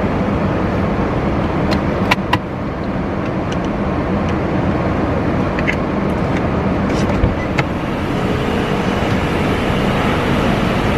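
A car's steady rumble of engine and road noise, with a few light clicks about two seconds in.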